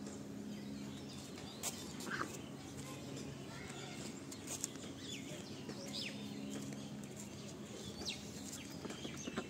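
Scattered short, high bird chirps, each a quick downward sweep, a handful over several seconds, above a steady low hum.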